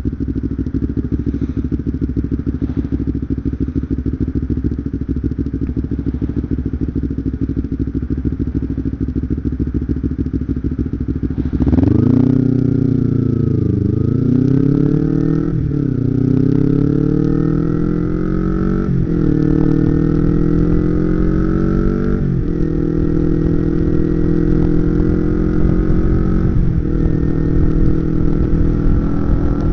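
Kawasaki Ninja 250R's parallel-twin engine running at a steady note, then from a little under halfway through accelerating hard, the revs climbing and dropping back with each of several upshifts.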